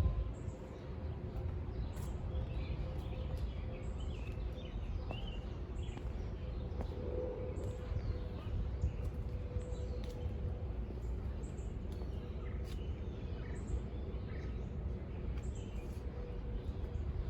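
Small birds chirping now and then in short, scattered calls over a steady low rumble and a faint steady hum.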